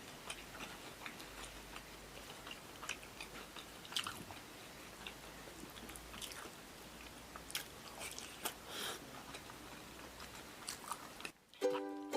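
Close-miked chewing of crispy starch-coated fried eggplant with minced beef sauce: scattered faint crunches and mouth clicks. Ukulele music starts near the end.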